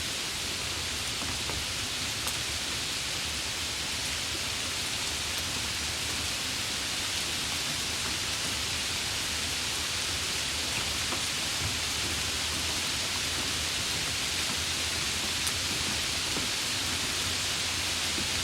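Steady rain falling: an even, continuous hiss with a few sharper drop ticks here and there.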